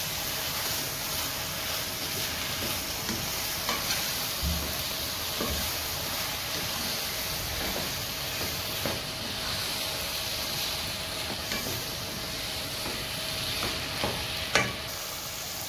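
Chicken pieces sizzling in oil in a pan while a wooden spatula stirs them, with a few knocks of the spatula against the pan, the loudest near the end.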